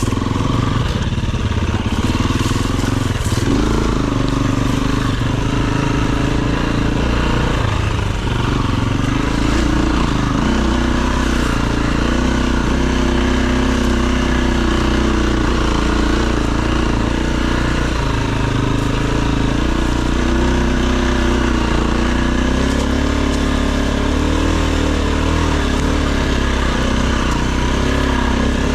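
Enduro dirt bike engine running continuously, its pitch wavering up and down as the throttle is worked.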